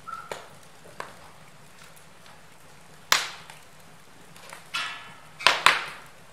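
Wood fire burning in a fireplace, crackling with scattered sharp pops; two loud pops come in quick succession near the end, just after a short hiss.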